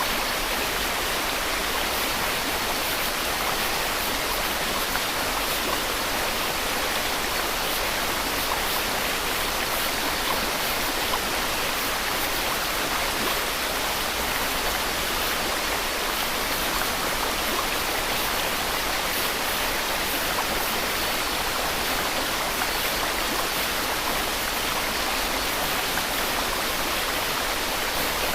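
Steady white noise: an even, unchanging hiss with no breaks or changes in level.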